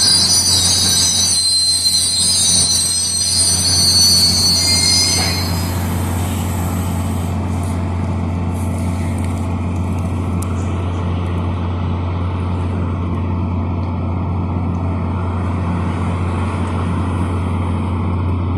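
MBTA train rolling slowly past, its wheels squealing high-pitched on the rails for about the first five seconds. The squeal then stops, leaving a steady low rumble and drone from the train.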